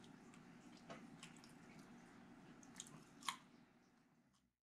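Faint sounds of a person chewing a forkful of mashed potatoes, with a few small clicks over low room tone. It fades out to silence near the end.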